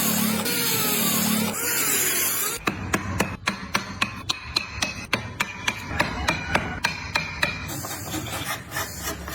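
Hand tools working wood: a rasping, sanding scrape, then a steady run of sharp taps, about three or four a second, then the rasping scrape again near the end.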